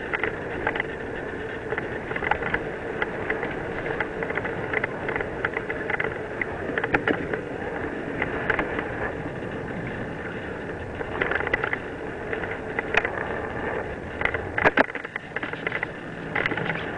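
Mountain bike riding down a dirt trail: steady tyre and wind noise with frequent rattles and knocks as it goes over bumps.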